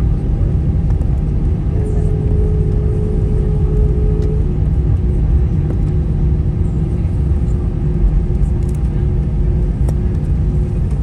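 Cabin noise of an Airbus A320-200 taxiing after landing: a heavy, steady rumble from the engines and wheels, with a steady hum, and a second, higher hum that comes in about two seconds in and stops a couple of seconds later.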